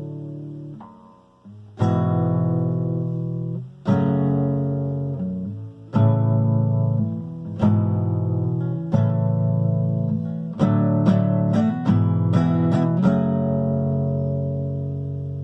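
Acoustic guitar strumming chords, each struck about every two seconds and left to ring and fade. Near the end comes a quicker run of strums, then one last chord rings out.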